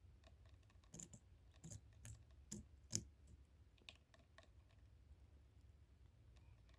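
A run of sharp taps, about six in quick succession, followed by a few fainter ones.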